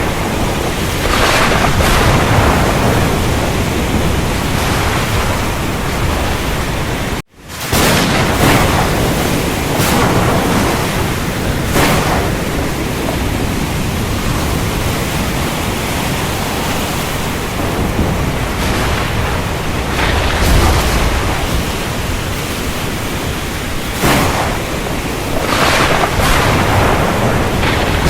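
Heavy, steady rain with thunder rumbling low underneath and brief louder surges every few seconds. About seven seconds in, the sound drops out for a split second and then comes straight back.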